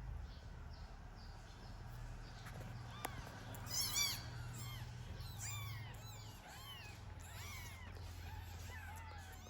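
Tiny kitten mewing repeatedly in short, high-pitched cries, with a quick loud run of mews about four seconds in. A steady low hum runs underneath.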